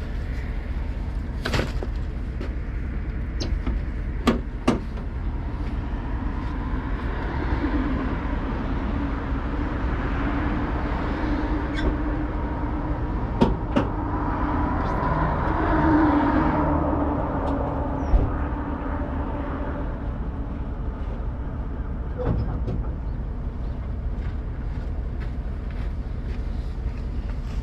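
Steady low rumble of a running vehicle engine, with a droning sound that swells toward the middle and fades again, and several sharp knocks and clicks.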